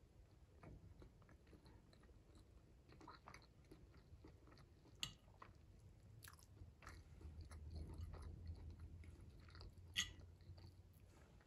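Close-miked chewing of garlic shrimp with soft, wet mouth clicks. A sharp clink of a metal fork on the plate comes about five seconds in, and a louder one near ten seconds as the fork spears a shrimp.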